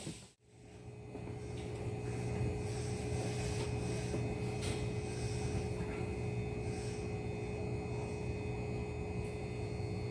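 JR West 207 series electric train cabin with the train standing still: a steady, quiet hum of its onboard equipment, with a few constant tones over a low rumble.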